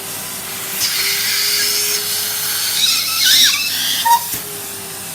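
Numatic Henry canister vacuum cleaner running with a steady motor hum, its suction hiss swelling about a second in as the nozzle works over a glove. Brief squeals of air around the middle as the glove is drawn against the nozzle.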